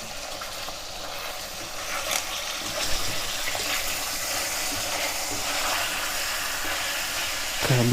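Pieces of fatty pork belly sizzling in hot oil in a frying pan, a steady hiss with scattered pops and crackles that grows a little louder about two seconds in.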